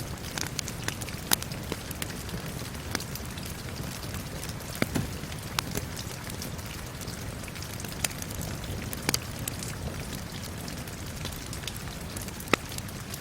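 Steady rain falling, mixed with a crackling wood fire that gives sharp pops every second or so, the loudest a few seconds apart.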